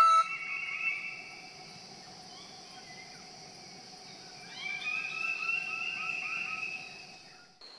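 Forest insects keeping up a steady high drone, with a bird calling a rapid run of warbling, chattering notes about halfway through. The ambience cuts off abruptly near the end.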